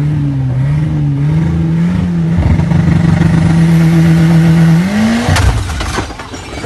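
Car engine running hard, heard from inside the cabin. About five seconds in, its note rises and then cuts off abruptly, with two sharp bangs and a clatter: a sudden mechanical failure.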